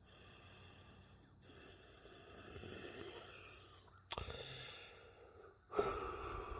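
A person breathing close to the microphone, a few long breaths one after another, with a sharp click about four seconds in.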